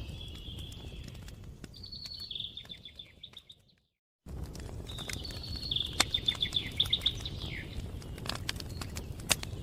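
Wood fire crackling: sharp pops and snaps over a low steady rumble, with high chirping trills twice. The sound drops out to silence for about half a second a little before the middle, then the fire picks up again.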